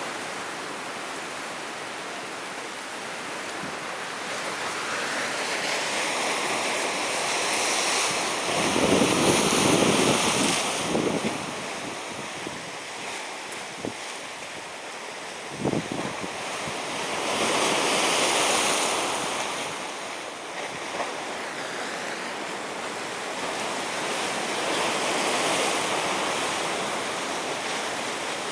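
Sea waves breaking and washing in, the surf swelling in surges roughly eight seconds apart, the loudest a third of the way in. A brief sharp splash about halfway through.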